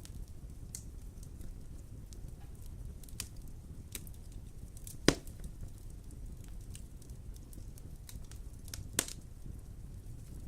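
Wood fire burning in a fireplace: a low steady rumble with scattered crackles and pops, two sharp loud pops about halfway through and near the end.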